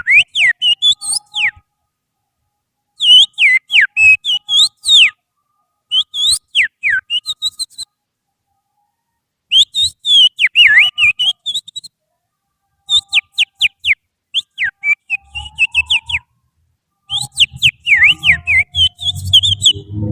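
Loud finger whistling imitating an oriental magpie-robin's (kacer) song: phrases of sharp, quickly falling whistle notes, repeated in short bursts with pauses of a second or two between them. A low steady hum comes in underneath near the end.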